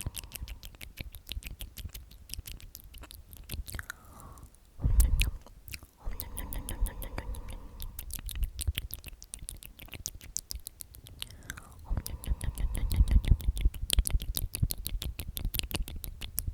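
Close-miked wet mouth sounds: rapid tongue clicks and lip smacks, mixed with soft whispered repetitions of "omnomnom". There is a low thump about five seconds in, and heavier low bumps between about twelve and fourteen seconds.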